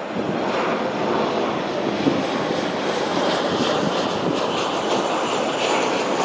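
Boeing 737-400's CFM56 turbofan engines heard from the ground as the airliner lands, a steady rushing jet noise that picks up a little about half a second in and holds level.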